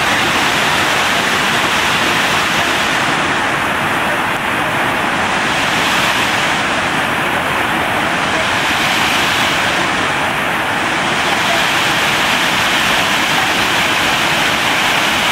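Shypit waterfall in the Carpathians: a loud, steady rush of falling water, unbroken throughout.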